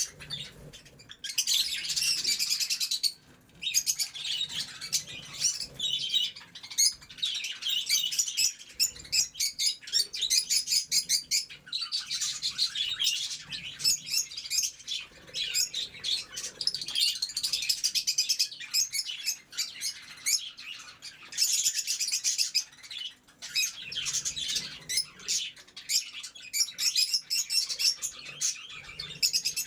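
A flock of pet budgerigars and lovebirds chattering and chirping continuously, many birds calling at once in rapid, high chirps.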